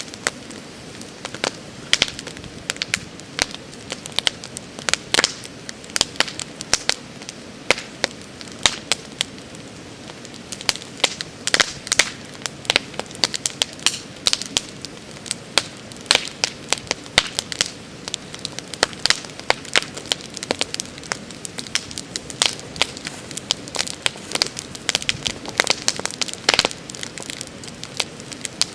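Wood campfire burning with irregular sharp crackles and pops over a steady low hiss of flame.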